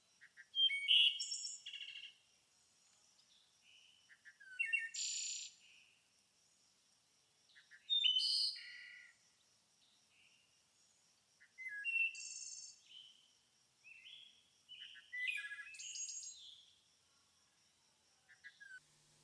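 A songbird singing short, varied phrases of high chirps and trills, about six phrases each a few seconds apart, over a faint steady high-pitched tone.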